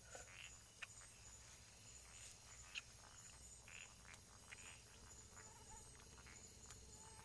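Faint night chorus of frogs and insects near a pond: scattered short chirping calls over a steady high insect drone, with a couple of sharp clicks.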